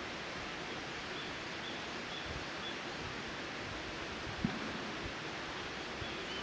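Outdoor ambience: a steady rustling haze with a few faint, short high chirps and one soft low thump about four and a half seconds in.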